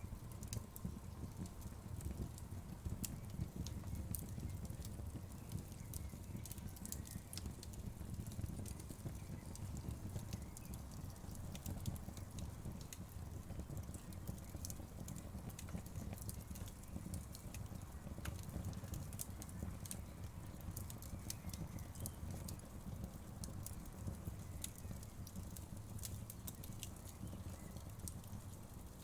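Wood fire crackling in a fireplace: a steady low rumble of burning with frequent small sharp snaps and pops at irregular intervals.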